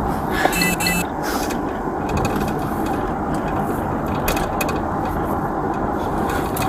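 Steady road and engine noise inside a moving car, with a few light clicks and rattles.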